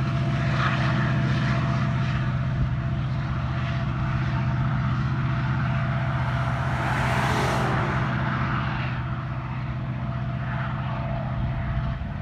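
Steady low drone of a passing diesel freight train, which cuts off near the end. A pickup truck swishes past on the road about six to nine seconds in.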